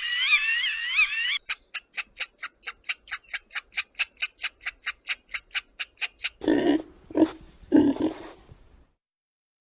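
Animal sounds in three parts: a cluster of overlapping high chirping calls, then a steady run of sharp clicks about five a second for nearly five seconds, then several low grunts near the end.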